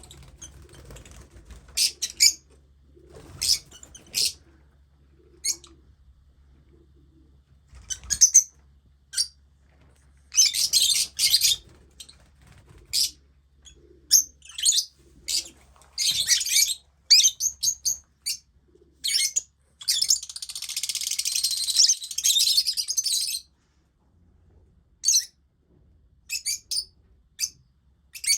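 Lovebirds giving repeated sharp, shrill chirps, with a stretch of continuous chattering about two-thirds of the way through.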